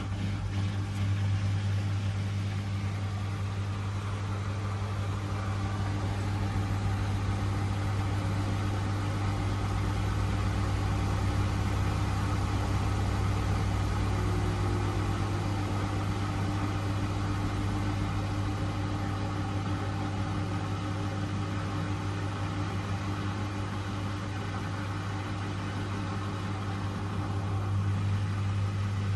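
Miele W1 washing machine running, a steady motor hum with a strong low tone that holds even throughout.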